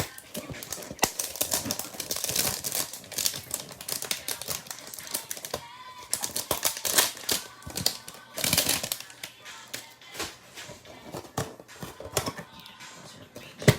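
Trading card pack wrappers and cards being handled, a dense run of irregular crinkling clicks, over background music.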